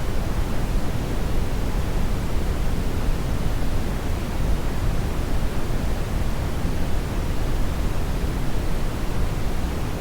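Hair dryer running steadily: an even rushing noise, heaviest in the low end, with no change in pitch or level.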